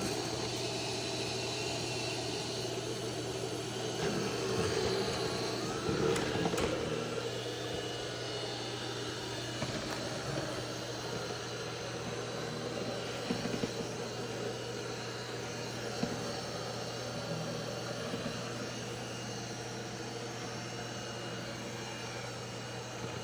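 Roborock Saros 10 robot vacuum running, a steady motor whir with a low hum, louder and busier for a few seconds about four to seven seconds in.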